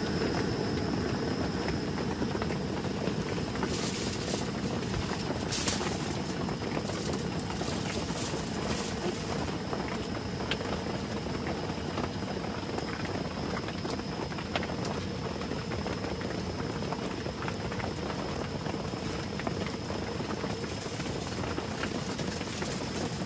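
Heavy rain pouring steadily, an even hiss with scattered sharper drip ticks.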